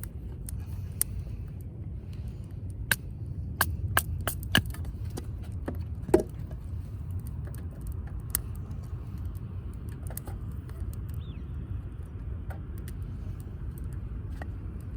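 Damp firewood burning in a wood grill, crackling with scattered sharp pops and snaps, the loudest a little over six seconds in, over a steady low rumble.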